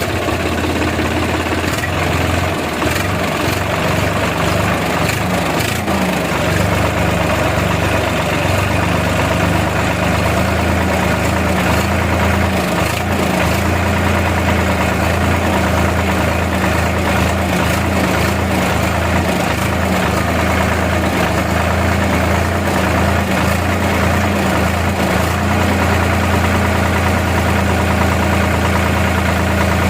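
Tractor engine idling steadily, a deep even running sound that holds without change.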